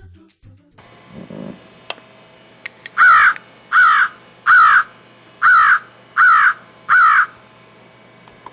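A crow cawing six times in a row: short caws about three-quarters of a second apart, starting about three seconds in.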